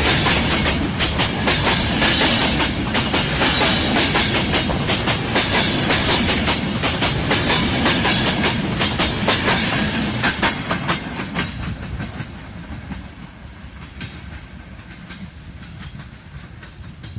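A passenger train passing, its wheels clicking rhythmically over the rail joints over a steady rumble. The clatter fades away from about two-thirds of the way through as the train moves off.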